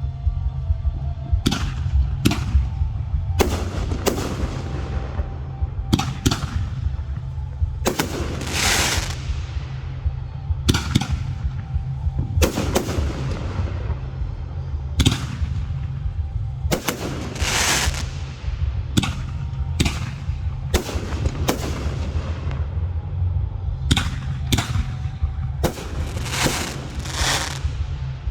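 Fireworks display: aerial shells bursting in a long series of sharp booms, about two dozen of them, often two or three in quick succession. Several bursts trail off into a long crackle. A steady low rumble runs underneath.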